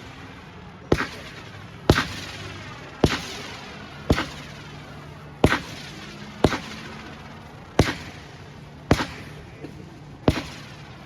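A consumer firework cake loaded with go-getter effects firing its shots one after another, about one sharp bang a second, nine in all, each dying away in a short ringing tail.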